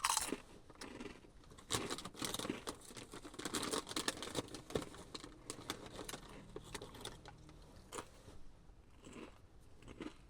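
Crinkling and tearing of a plastic chips packet being opened and handled, in irregular crackly rustles.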